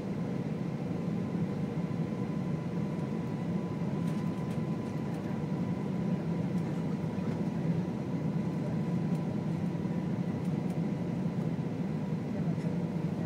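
Steady cabin noise of an Airbus A320 in flight: a constant low rumble of jet engines and airflow, with a faint steady tone.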